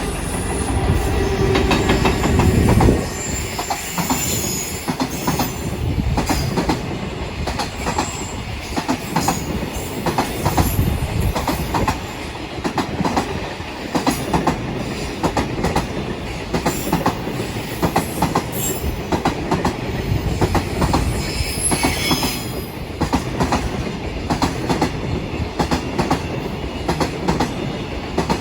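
A train running through the station, its wheels clacking in a steady rhythm over the rail joints with brief high wheel squeals now and then. It is loudest for the first three seconds.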